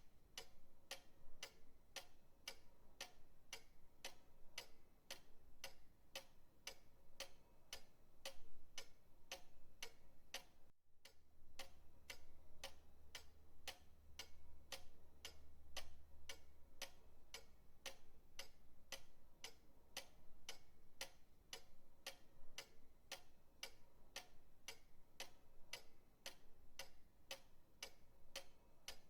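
Pendulum clock ticking softly, a steady, even run of sharp ticks.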